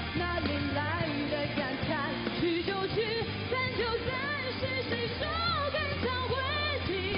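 Woman singing a pop song with vibrato over live band accompaniment.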